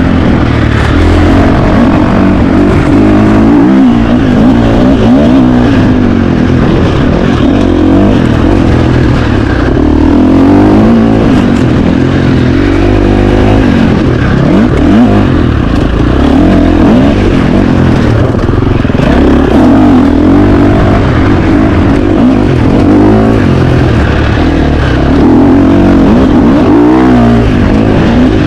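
2025 KTM 350 XC-F's single-cylinder four-stroke dirt bike engine ridden hard, its revs rising and falling over and over as the rider works the throttle and gears.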